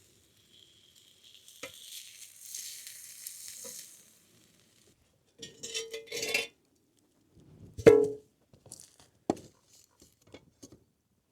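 Food sizzling over a fire, then cooking utensils scraping and clattering, with one sharp ringing clink near the middle and a few lighter knocks after it.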